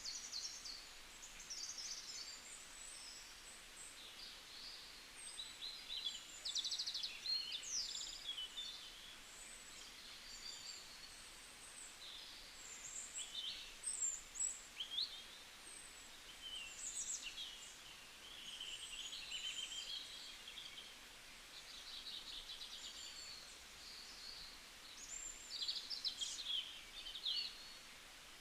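Small birds chirping and singing: many short, quick, varied calls that overlap in clusters, over a faint steady hiss.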